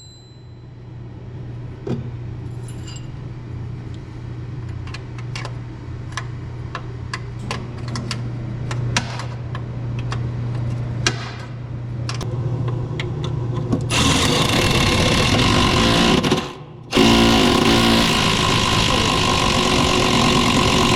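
Steam pressure washer running with a steady low hum and scattered sharp clicks. About two-thirds of the way in, a much louder steady rushing noise starts; it cuts out briefly for about half a second, then resumes.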